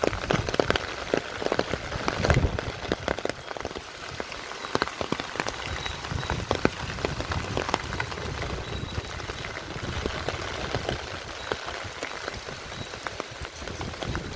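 Steady rain falling, with many close raindrops tapping in an irregular patter.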